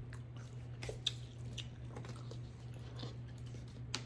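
A person chewing a sugar-coated gummy candy: faint, scattered small mouth clicks over a steady low hum.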